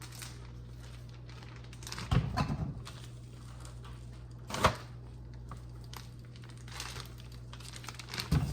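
Kitchen handling noises while cooking: low knocks and rustling about two seconds in, a sharp click about halfway through, and more knocks near the end, over a steady low hum.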